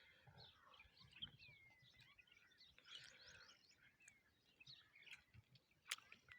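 Faint birds chirping: many short high calls, several gliding down in pitch, with a single sharp click near the end.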